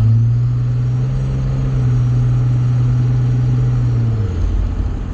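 Dodge Ram 3500's Cummins common-rail turbo-diesel pulling under load, a strong low engine note with a high turbo whistle that climbs at the start. About four seconds in the engine note drops and the whistle falls away as the load comes off.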